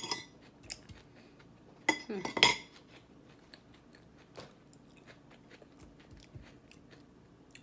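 Close-up eating sounds: a person chewing a salad, with a fork clinking against the bowl at the start and more loudly about two seconds in, then soft chewing ticks.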